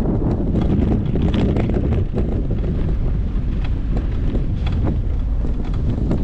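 Wind buffeting the microphone during a bicycle ride: a loud, steady low rumble with scattered small clicks.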